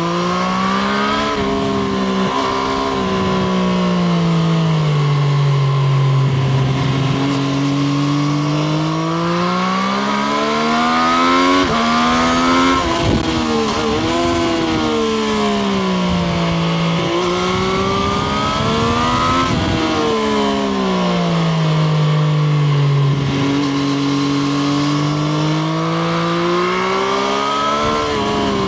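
Triumph Street Triple RS 765 cc inline three-cylinder engine heard onboard while riding. Its pitch falls and climbs in long sweeps as the rider slows and accelerates, with sudden jumps at gear changes.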